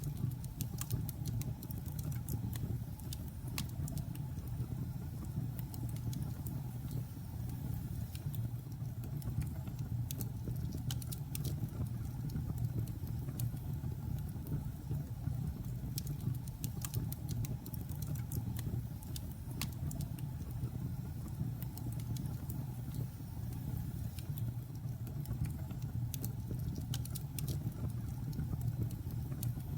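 Logs burning in a fireplace: a steady low rumble of the fire with irregular sharp crackles and pops of the wood throughout.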